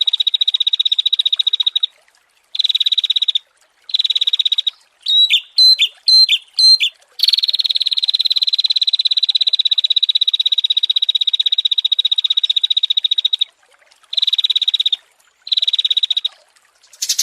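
Small songbirds calling: fast buzzing trills broken by short pauses, with a quick run of sharp sweeping chirps about five seconds in, then one long unbroken trill of about six seconds.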